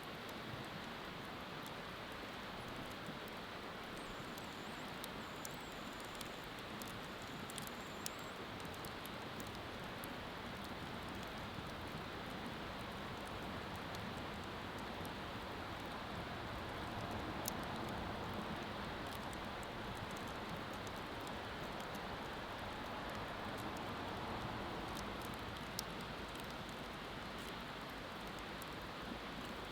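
Wood bonfire burning: a steady hiss with scattered sharp crackles and pops every few seconds.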